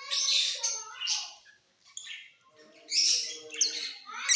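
Lovebirds chirping and squawking: harsh, high-pitched calls in short bursts, pausing briefly about a second and a half in before starting again.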